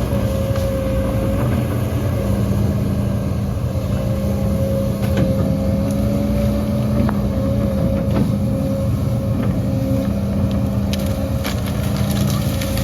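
Heavy diesel earthmoving machine engine running steadily, with a few faint clicks scattered through.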